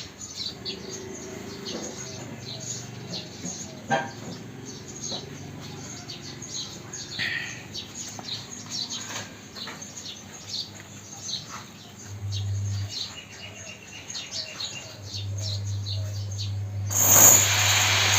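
Small birds chirping repeatedly in the background. A low steady hum comes in about twelve seconds in, and a loud rushing noise comes near the end.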